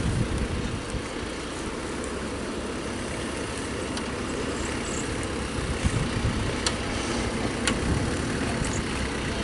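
Motor vehicle engine running steadily, with a few light clicks.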